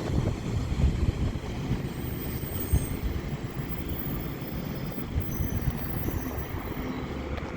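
Northern Class 150/2 diesel multiple unit pulling into a terminating platform: a steady low engine and wheel rumble, with a few faint high wheel squeals midway.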